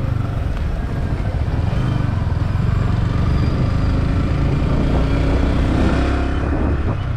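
Yamaha R15 V4 motorcycle's single-cylinder engine running steadily while riding, with a constant haze of road and wind noise.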